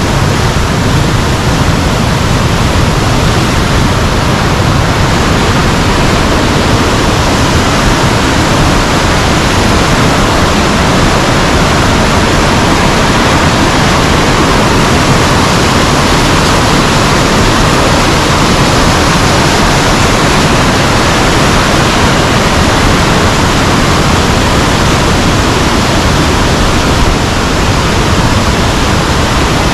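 A river rushing: loud, steady water noise with no break.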